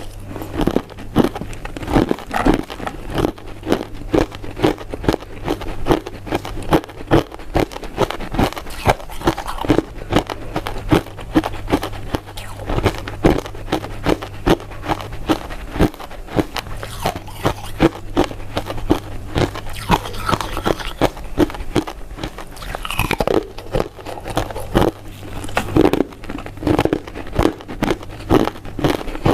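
Close-miked chewing and biting of soft, powder-coated mint sweets: a steady run of short mouth clicks and smacks, about two to three a second, over a faint low hum.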